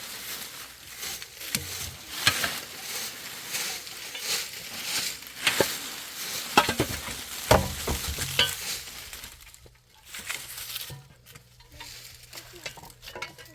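Food sizzling in a hot pan, with repeated scrapes and knocks of a utensil stirring it. The sizzling thins out about nine and a half seconds in, leaving a low steady hum and a few knocks.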